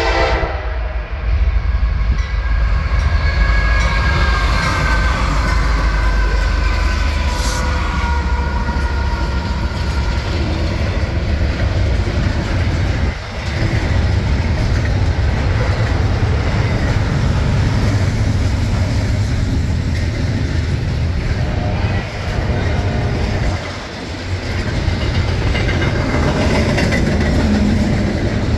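A Norfolk Southern AC44C6M diesel locomotive's horn cuts off at the start, then the locomotive passes with several pitched tones slowly falling. After it, double-stack intermodal cars roll by with a steady heavy rumble and the clickety-clack of wheels on rail joints.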